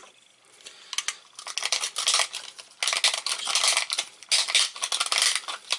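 Hard plastic drain parts being handled and pushed against each other, a run of scraping and rubbing with many small clicks, starting about a second in.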